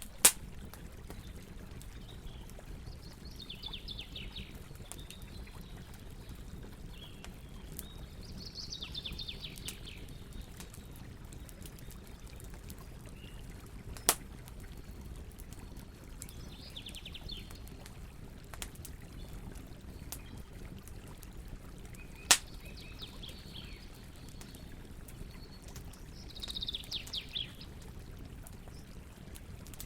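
Campfire crackling steadily, with three loud wood pops: just after the start, about halfway through and about three quarters through. A bird gives short rapid trills every four to five seconds behind it.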